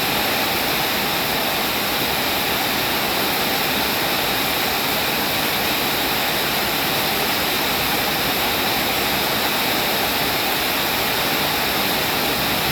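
Heavy rain falling as a steady, even hiss of rushing water, without distinct drops.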